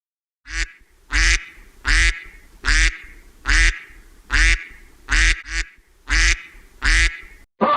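An animal calling over and over: about ten short calls, roughly one every 0.7 seconds, with two of them close together in the second half.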